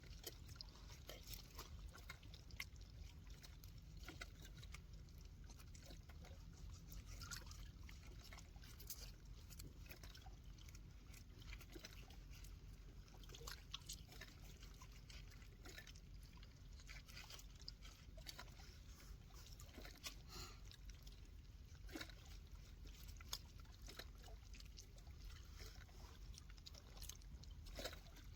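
Faint trickling water with many scattered small ticks over a low steady rumble.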